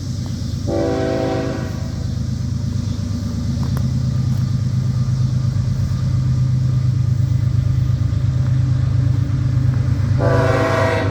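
Diesel freight train led by a BNSF GE ES44C4 locomotive, its engine rumbling steadily and growing louder as it approaches. The air horn gives a short blast about a second in, and another blast starts near the end.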